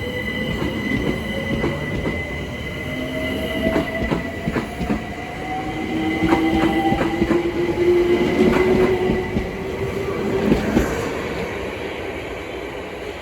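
London Overground Class 378 electric multiple unit pulling away from the platform, its traction motors whining and rising slowly in pitch as it accelerates. Wheels click over the rail joints. The sound is loudest past the middle, then the whine cuts off and the train fades.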